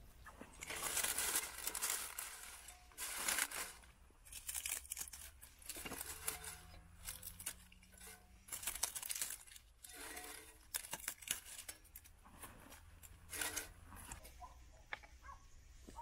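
Irregular bursts of crumpling and tearing handling noise.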